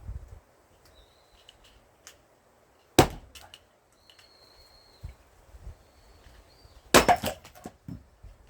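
Two heavy strikes of a large forged axe into knotty pine firewood, about four seconds apart, the second followed by a short crackle of the wood splitting.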